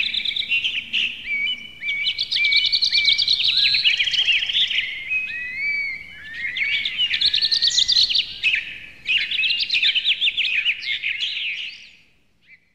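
Birds singing, with several overlapping phrases of quick chirps, trills and short rising whistles, fading out near the end.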